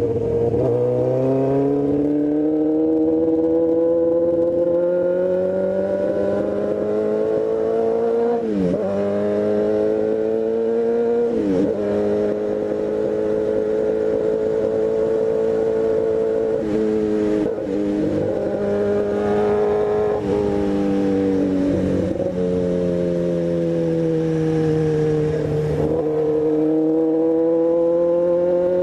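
Sport motorcycle engine running under way, its pitch slowly rising and falling with the throttle, with brief sharp dips and recoveries about half a dozen times as the rider shifts or rolls off and back on.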